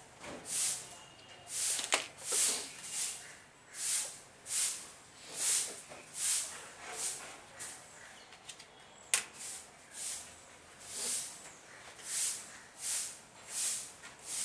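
Rhythmic hissing strokes, about one every three-quarters of a second, pausing briefly in the middle, with two sharp clicks.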